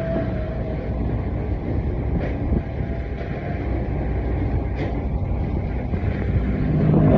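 A steady engine rumble from a vehicle or heavy machine running continuously, growing louder near the end.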